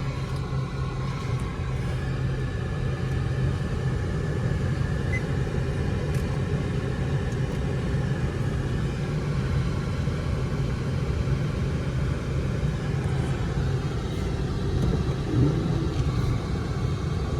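Car engine running steadily at an even idle, a low constant hum with no revving.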